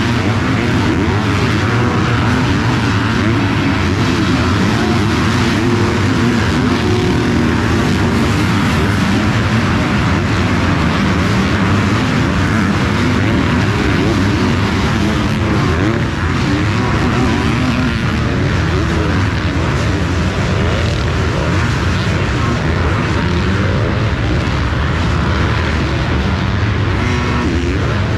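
Several 250cc four-stroke motocross bikes racing, their engines revving up and down and overlapping as they go round the track.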